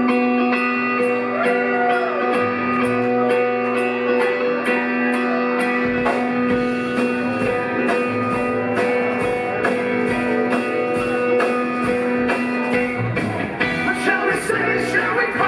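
Live rock band of electric guitar, bass, keyboards and drums playing a jam: long held chords over a steady ticking cymbal beat, with a bass-drum pulse coming in about six seconds in.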